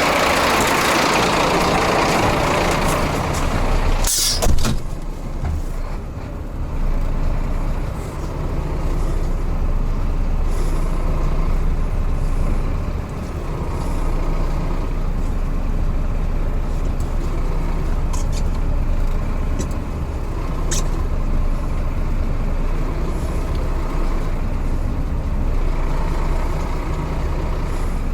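Heavy Scania truck's diesel engine running steadily. A loud air hiss fills the first four seconds and ends in a short, sharp burst of air from the air brakes.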